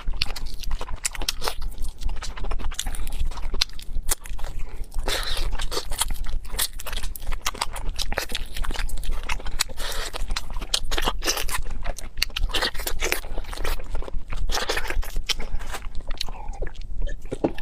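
Close-up chewing and biting of a person eating peeled crayfish tails, a dense stream of quick clicks and crunches.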